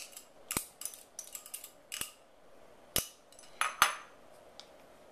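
A kitchen utensil clinking and tapping against a bowl while frothy beaten egg whites are poured and scraped in. There are several sharp taps spread out, and the loudest pair comes near the end.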